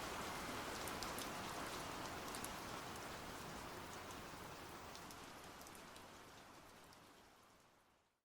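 Steady rain falling on a surface, with scattered individual drop taps, slowly fading out to silence.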